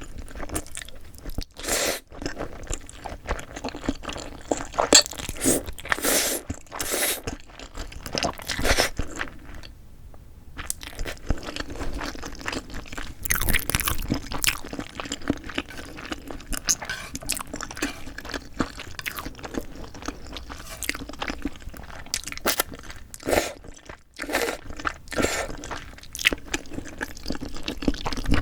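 Close-miked eating sounds: irregular crunchy bites and chewing, with wet mouth noises between them, from a meal of whelks and spicy cold mixed noodles. There are short pauses about ten seconds in and again near the end.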